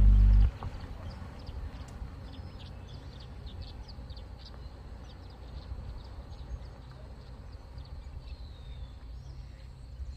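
Background music cuts off half a second in, leaving outdoor ambience: many short, high bird chirps over a low steady rumble.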